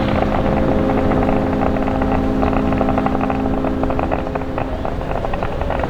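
Horns sounding together in one long, steady chord that cuts off about four and a half seconds in, over a constant crackling outdoor noise.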